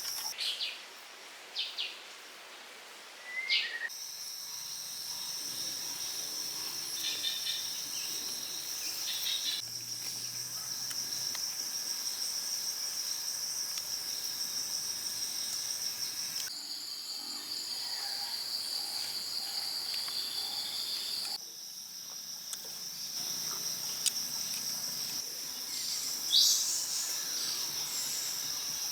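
Steady high-pitched insect chorus, like crickets, with the background changing abruptly several times and a few brief sharp sounds over it.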